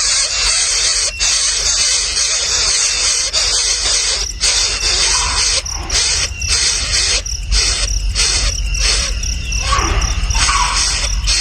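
Nestling birds calling shrilly and noisily all together, a dense high chorus that breaks into short bursts with brief gaps from about four seconds in. Going by the title, this is their agitated calling at the sight of a large rat.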